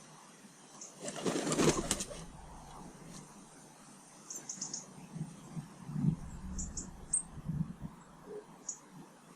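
A bird's wings flapping in a loud flurry about a second in, followed by a few soft low thuds and short faint high chirps from small birds.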